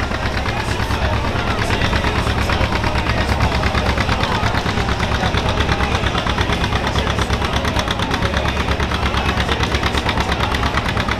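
Pulling tractor's engine idling loudly with a fast, even beat of exhaust pulses.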